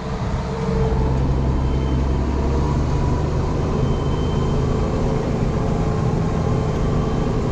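Ford TW tractor's diesel engine running steadily under load while pulling a plough; its note shifts slightly about two and a half seconds in.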